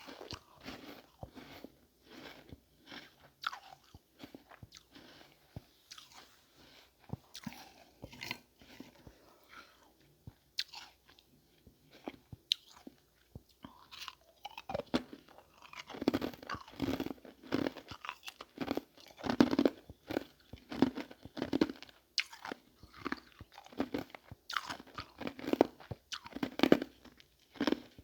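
Ice being crunched and chewed close to the microphone. Scattered sharp cracks come first, then steady, louder chewing from about halfway through.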